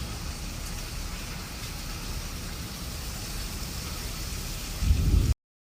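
Steady rain falling, with a low rumble underneath. A louder low rumble comes just before five seconds in, and then the sound cuts off abruptly.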